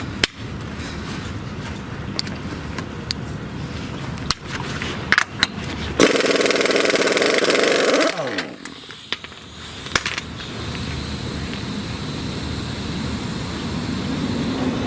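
Impact wrench hammering loudly for about two seconds on a 36 mm front hub nut, then spinning down with a falling whine. Before and after it there is a steady background noise with a few sharp clicks.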